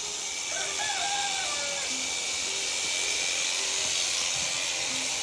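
Electric sheep shears running with a steady high buzz as a sheep is shorn, with a brief wavering pitched sound about a second in.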